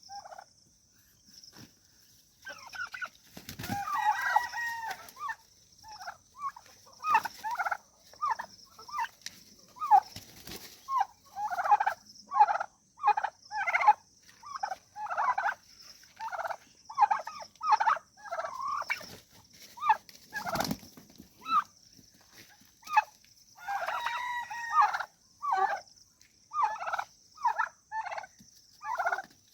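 Farmyard turkey and chickens calling during a scuffle: two long wavering gobbles, one near the start and one late, with a dense run of short sharp calls in between. A few dull thumps are heard along with the calls.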